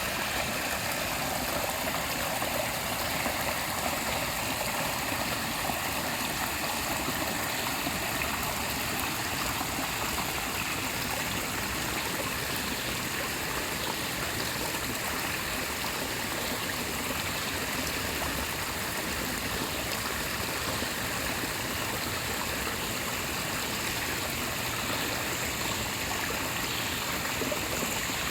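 Small forest stream flowing slowly, a steady rush and trickle of running water.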